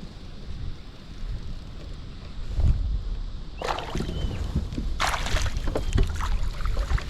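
Wind buffeting the microphone on a kayak. From about three and a half seconds in comes a dense run of splashes and knocks as a just-caught bass is landed and handled in the kayak.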